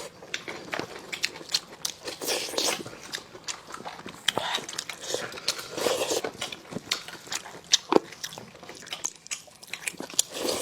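Close-miked mouth sounds of biting and chewing braised lamb chop meat, with irregular crunches and wet smacks.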